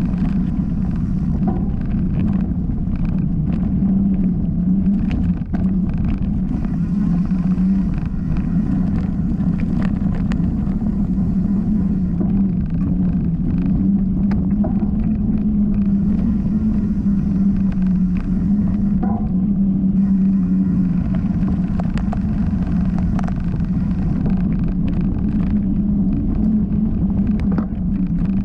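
Mountain bike rolling fast down a dirt flow trail: a steady low rumble of tyres and wind on the camera, with scattered clicks and rattles from the bike.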